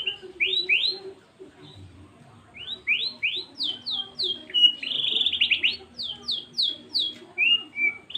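White-rumped shama (murai batu) singing: loud bursts of sharp, downward-sweeping whistled notes in quick series, with a fast rattling trill about five seconds in.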